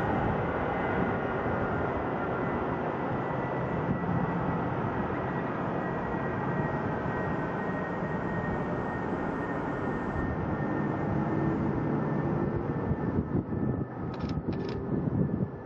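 Jet airliner engines running: a steady rush of noise with a thin high whine held throughout, and two brief sharper sounds near the end.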